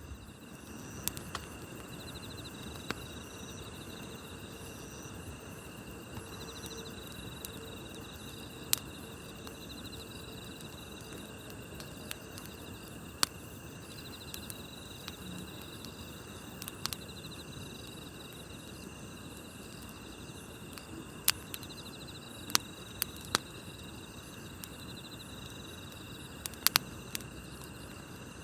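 Night insects chirping steadily in repeated high trills, with sharp pops from a crackling campfire every few seconds, several close together near the end.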